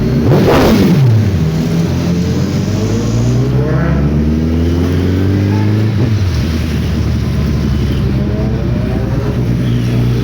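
Sport bike engine revving and accelerating, its pitch sweeping down sharply about a second in, then climbing for a couple of seconds and dropping again, as it would across a gear change.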